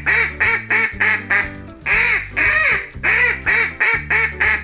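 Duck quacking repeatedly over light background music: a quick run of short quacks, then two longer quacks about two seconds in, then another quick run.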